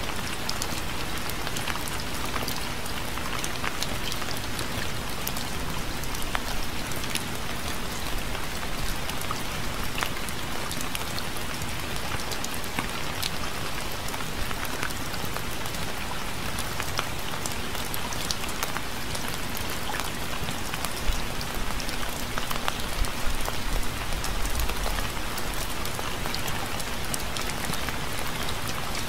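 Steady rain falling, with many individual drops heard striking a surface, and a few slightly louder moments about three-quarters of the way through.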